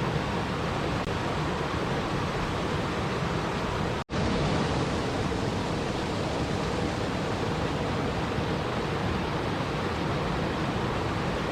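Steady rushing water, an even hiss that does not change, broken by a split-second dropout about four seconds in.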